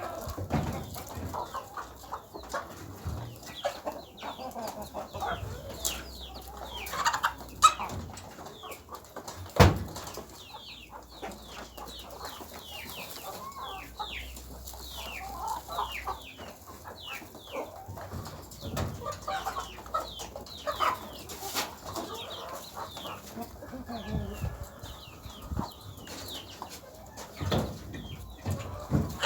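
Chickens clucking, with many short, high, falling chirps throughout and a few sharp knocks, two of them louder about a quarter and a third of the way in.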